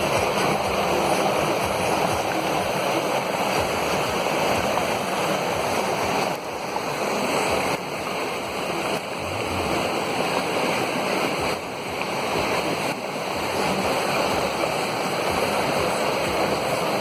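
Rushing water, a steady loud rush with a few brief dips in level, as from a swollen stream or rain runoff pouring off a hillside.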